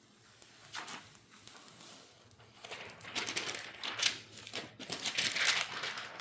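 Protective plastic film and packing material being peeled off a new robot vacuum, crinkling and rustling in irregular bursts that get louder in the second half.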